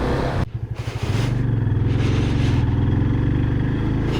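Motorcycle engine running at a steady pace while riding, with a short break about half a second in.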